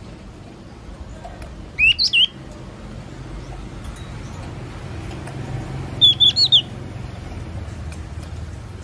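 Yellow-cheeked tit calling: two short bursts of three quick high chirps, about four seconds apart.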